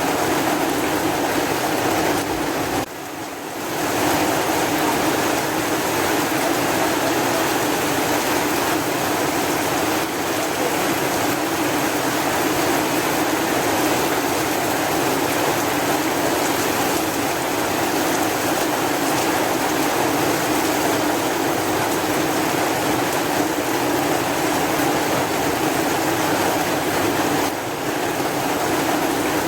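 Steady heavy rain, a dense even hiss, briefly dropping in level about three seconds in and again near the end.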